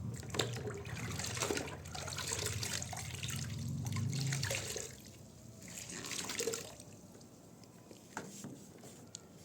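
Water running and splashing for about five seconds, then a shorter splash about six seconds in.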